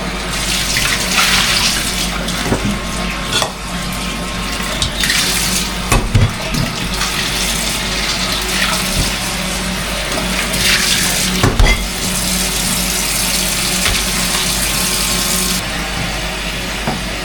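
Kitchen tap running into the sink, water splashing steadily, with a couple of knocks of a pot or dish against the sink.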